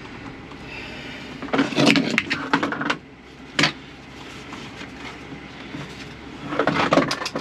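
Clattering and clicking of parts and tools being handled during a car seat belt installation: a rattling cluster of clicks about a second and a half in, a single sharp knock a little later, and another burst of clicks near the end.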